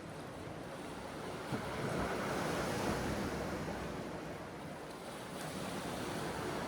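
Sea waves washing in, swelling a couple of seconds in, easing off, then building again near the end, with wind on the microphone.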